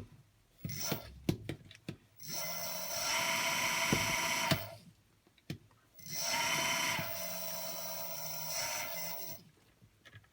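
Car alternator converted into a brushless motor spinning up and running twice, each run lasting a few seconds, with a steady high electrical whine over a low hum; a few clicks come before and between the runs.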